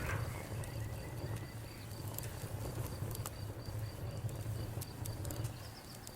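Campfire burning with scattered sharp crackles and pops over a low steady rumble of flames, and a steady high chirping pulsing evenly in the background.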